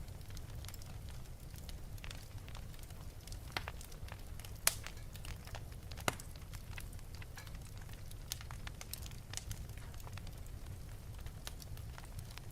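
Wood fire burning in an open fireplace: a steady low rumble of flame with irregular crackles and pops, two sharper pops standing out a little before the middle.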